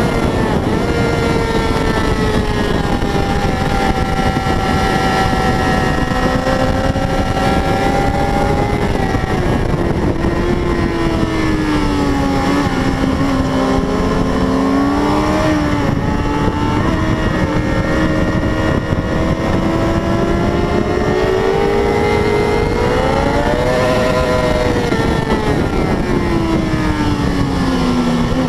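600 cc racing motorcycle engine running hard, its pitch rising and falling again and again as it revs up and drops back, over a steady rush of wind noise.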